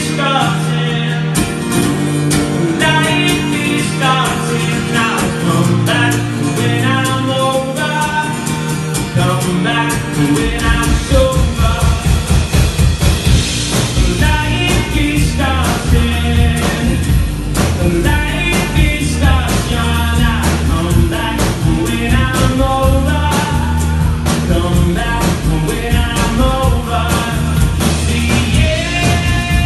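Rock band playing a song with guitar; about ten seconds in, the bass and a steady drum beat come in heavily underneath.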